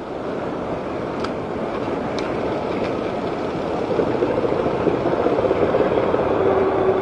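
A diesel freight train powered by five Alco diesel-electric locomotives, led by an RS-36, running as it approaches. The steady engine and rail noise grows gradually louder.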